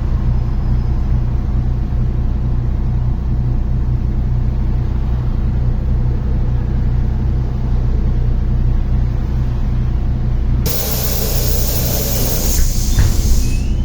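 MAZ-103 city bus's diesel engine running steadily while the bus drives, heard from inside the passenger cabin. About ten seconds in, a loud hiss of released compressed air from the bus's pneumatic system lasts about three seconds.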